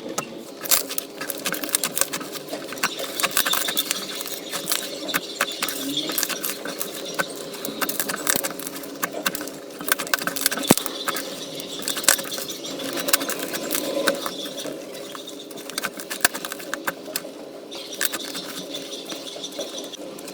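Slime being squished and poked by hand, with dense, irregular crackling and popping clicks.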